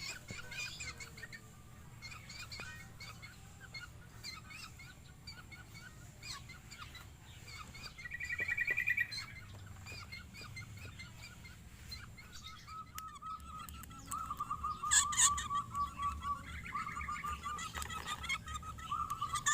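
Ashy drongos calling: scattered chirps, a quick trill about eight seconds in, then a run of repeated harsh, nasal calls in the second half as the birds contest territory.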